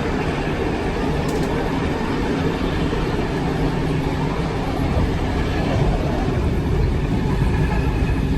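A train running with a steady low rumble, growing a little louder about halfway through.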